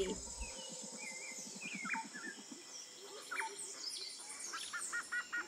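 Birds chirping: scattered short chirps and downward-sweeping calls, then from about four and a half seconds one bird repeats a quick call about four times a second. A low, rapid pulsing trill runs under the first two seconds.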